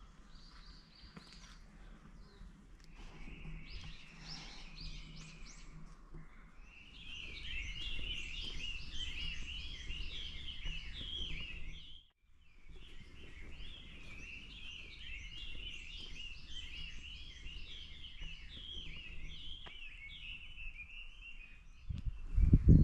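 Small birds chirping busily, many short overlapping calls at once, over a steady low outdoor hum. Near the end a few loud low thumps.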